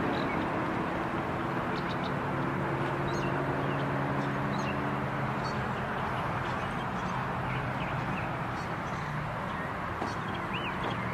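A car engine's note falling in pitch and fading to a steady low hum as it drives away, with birds chirping throughout.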